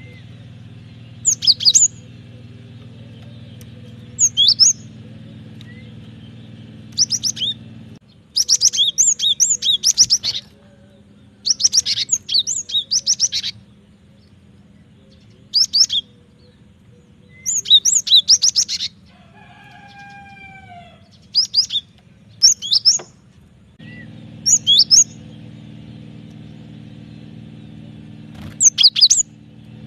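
Cinereous tit (gelatik batu) singing: short, sharp, high chirping phrases every couple of seconds, some drawn out into longer runs of quick repeated notes. A low steady hum runs underneath, fainter between about eight and twenty-four seconds in.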